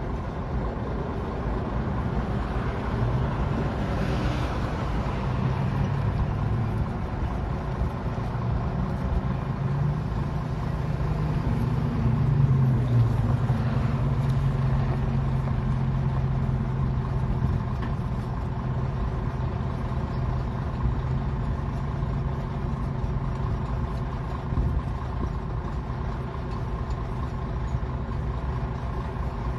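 Diesel engines of heavy equipment running steadily, revving up under load about three seconds in and again about twelve seconds in, with a short hiss about four seconds in.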